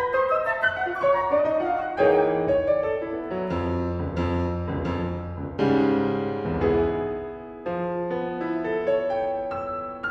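Live piano playing a contemporary classical passage: quick running notes, then loud chords struck about two, five and a half and seven and a half seconds in.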